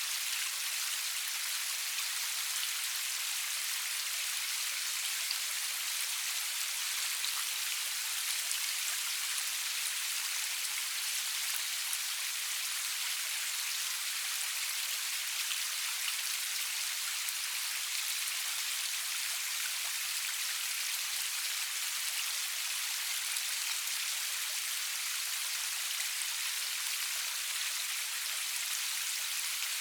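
Steady rain falling, an even high hiss of many fine drops with no thunder and no music.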